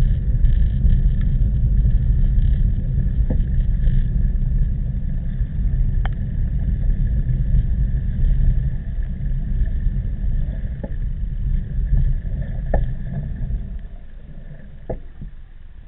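Heavy wind rumble buffeting the microphone of a camera on a moving bicycle in typhoon wind, with a few faint clicks; it eases off near the end.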